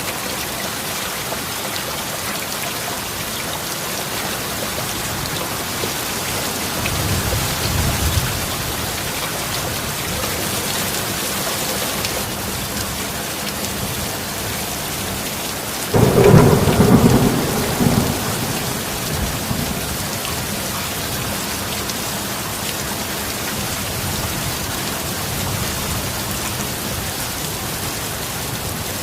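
Steady heavy rain with thunder: a low rumble about seven seconds in, then a sudden, louder thunderclap about sixteen seconds in that rumbles on for two or three seconds.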